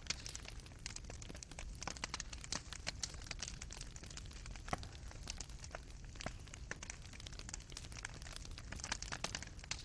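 Fireplace fire burning, with a soft low rumble and frequent small irregular crackles and pops of burning wood and embers.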